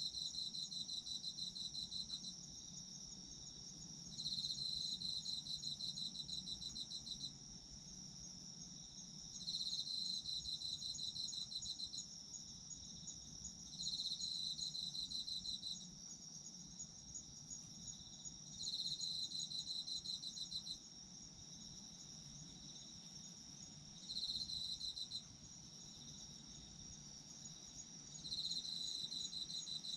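Chorus of autumn insects: one keeps up a steady, unbroken high trill, while another sings a rapid pulsed trill in bursts of two to three seconds, repeating about every five seconds.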